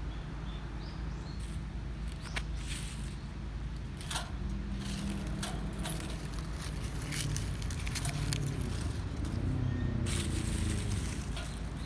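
Wood campfire crackling with scattered sharp pops. Under it, a low rumbling hum swells and fades between about four and eleven seconds in.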